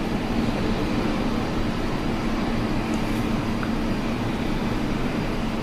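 Steady mechanical rumble with an even low hum that does not change.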